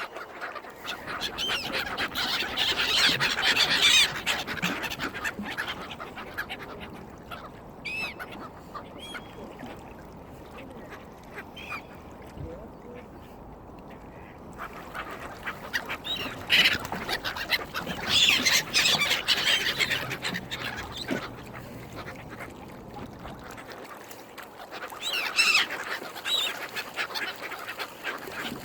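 Mallard ducks and other waterbirds being fed, calling in three loud bursts of quacking and honking, with quieter spells between.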